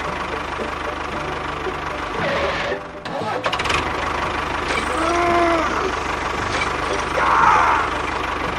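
A small engine running steadily with an even low pulse, dipping briefly about three seconds in.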